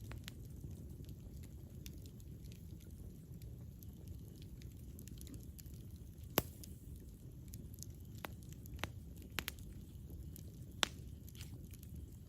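Campfire burning: a steady low rumble with scattered sharp pops and crackles of burning wood. The loudest pop comes about six seconds in, and a few more follow over the next five seconds.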